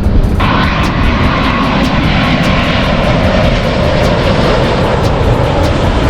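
Airliner on final approach passing low overhead: loud engine noise with a whine that slowly falls in pitch as it goes by.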